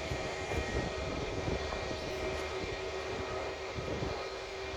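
Aircraft engines running steadily in the distance, a steady whining tone over a low, uneven rumble.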